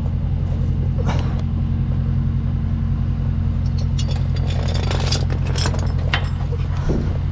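Truck engine idling steadily, with a few sharp clinks and knocks over it about a second in and again in the middle.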